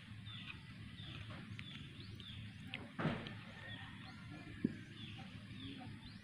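Small birds chirping over and over, short downward-sliding calls every half second or so, with a brief clack about three seconds in and a short knock a second and a half later.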